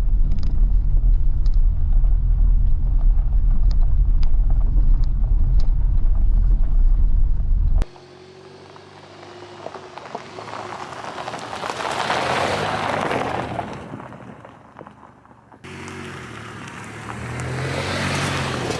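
Steady low rumble of a vehicle on the move for about eight seconds. After a sudden cut comes a quieter hiss that swells and fades over a low steady hum. A second cut near the end starts another similar swell.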